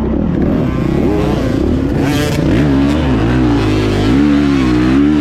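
Single-cylinder four-stroke dirt bike engine (2024 Beta 430 Race Edition) running under the rider, revving up and down repeatedly as the throttle is worked.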